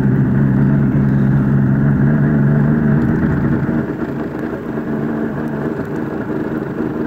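Motor vehicle engine running steadily as it drives through deep floodwater, easing off and getting quieter about three seconds in.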